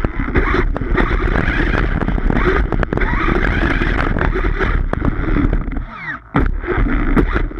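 Redcat Rampage XBE 1/5-scale electric RC car running hard over grass, its motor and tyres making a dense, busy noise with many small clicks. The noise drops away briefly about six seconds in, then picks back up.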